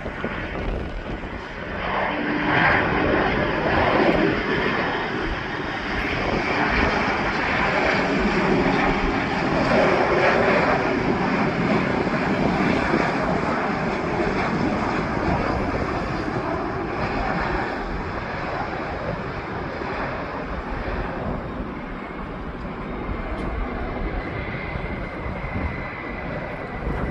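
Airplane engine noise from a fixed-wing aircraft at an airport, swelling about two seconds in and staying loud, then easing a little after about sixteen seconds.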